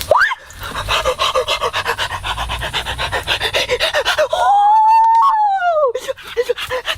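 An animal panting in fast, even breaths, broken by one long whine that rises and falls about four and a half seconds in, then panting again.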